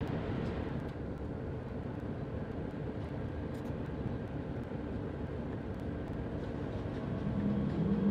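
Passenger train heard from inside the carriage, a steady low rumble while it stands. Near the end the drive's tone begins to rise as the train starts to pull away.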